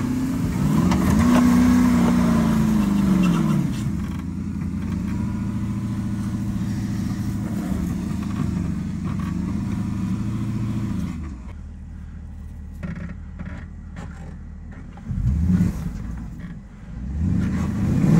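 Porsche Cayenne S 4.5-litre V8 engine pulling off-road: the revs rise and fall in the first few seconds, then hold steady under load. About eleven seconds in the engine drops lower and quieter, followed by two short blips of revs near the end.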